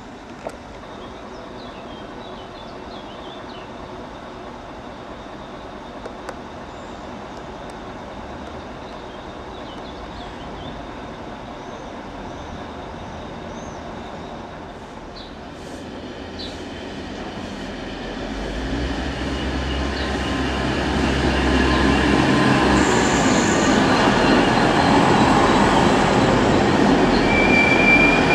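A train, a red DB Regio railcar, approaches and passes. After a quiet first half with faint high chirps, a rumble builds from about halfway through and is loudest over the last third, with brief high wheel squeals near the end.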